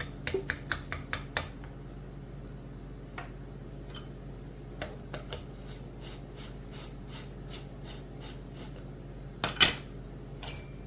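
Light clicks and taps of small hard objects, a quick cluster at the start, then scattered and fairly even faint ticks, and a louder clatter near the end, over a steady low hum.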